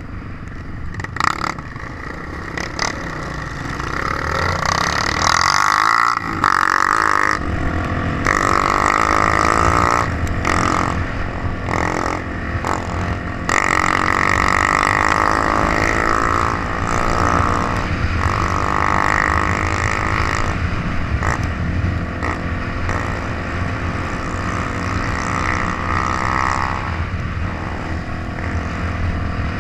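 Trail motorcycle engine running under changing throttle: it revs up a few seconds in, then rises and falls as the bike is ridden. Scattered sharp knocks sound over it.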